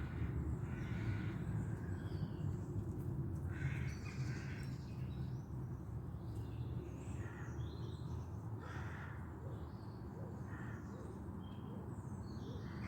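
Several wild birds calling and chirping in short scattered calls, some harsh, over a steady low rumble.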